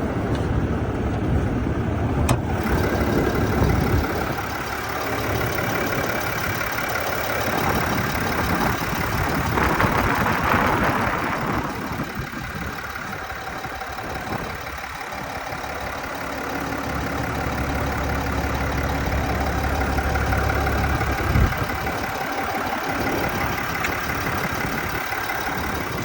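A 3.0-litre Duramax inline-six turbodiesel idling steadily and quietly, with a brief louder rushing noise about ten seconds in.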